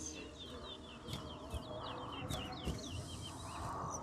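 A towa towa songbird singing a fast run of high twittering chirps, heard faintly.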